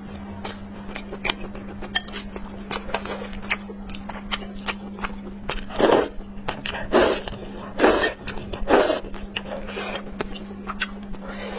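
Close-miked eating: chewing and biting with many small mouth clicks, and four louder bursts of chewing between about six and nine seconds in. A steady low hum runs underneath.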